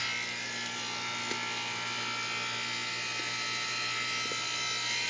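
Goodman air conditioner's outdoor condensing unit running on its compressor alone, with the condenser fan disconnected: a steady buzzing hum.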